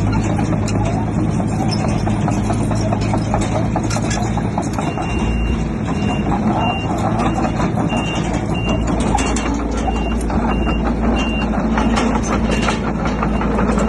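Crawler bulldozer's diesel engine running steadily under load, with clanking from the tracks and rock. A reversing alarm beeps repeatedly from about five seconds in until about eleven seconds.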